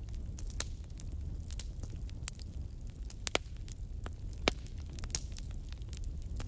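Wood fire crackling, with irregular sharp pops over a steady low rumble. The loudest pop comes about four and a half seconds in.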